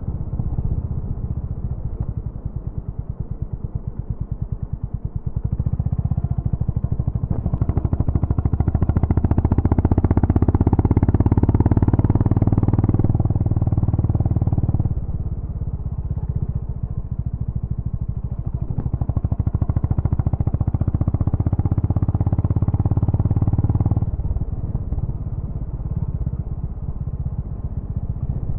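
Honda GB350's air-cooled single-cylinder engine running through its exhaust. It starts low with distinct separate thumps, grows louder with the throttle opened a few seconds in, and drops back suddenly about halfway through. It rises again and drops back once more near the end.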